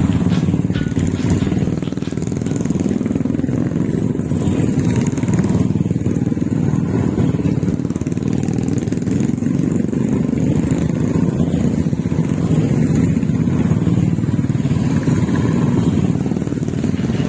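Steady low rumble of a running motor vehicle, most like a motorcycle on the move.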